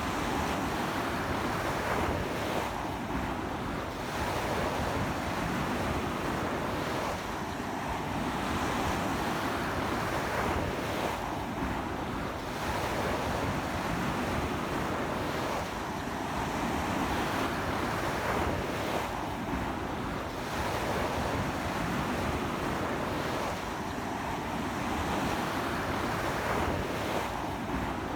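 Strong ocean surf breaking on a beach in a continuous wash that swells and eases every few seconds, with steady sea wind.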